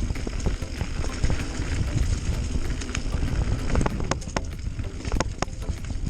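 Bicycle rolling down a dirt trail: a low rumble of tyres and wind on the microphone, with sharp rattles and clicks from the bike over bumps, several of them close together past the middle.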